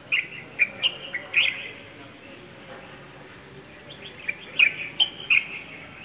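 Small birds chirping in short, sharp high notes: a quick cluster in the first second and a half, then another from about four to five and a half seconds in.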